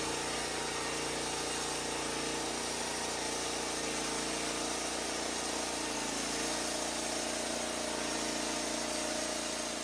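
An engine running steadily at an even speed, with a slight change in its tone about six seconds in.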